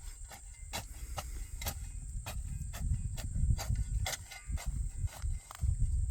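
Potting soil in a potato grow bag being broken up and loosened: a run of irregular crunching clicks over a low rustling rumble that grows louder about halfway through. A steady high-pitched hum sits behind it throughout.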